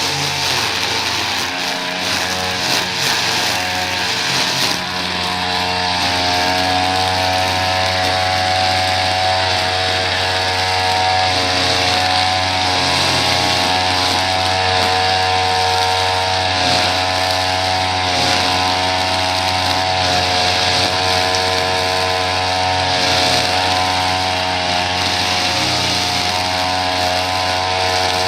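Small petrol engine of a piece of lawn-care equipment running steadily at constant speed.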